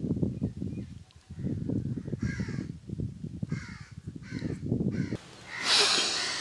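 Birds calling outdoors in short, harsh calls, about four of them, over a low, irregular rumble. About five seconds in the rumble cuts off and a loud, breathy rush of noise comes in.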